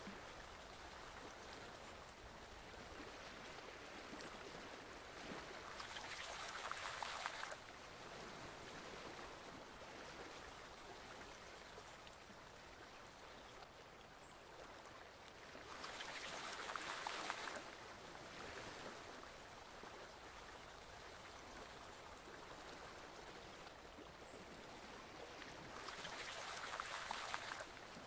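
Forest stream flowing, a steady faint rush of water, with a louder surge of rushing water swelling up three times, about ten seconds apart.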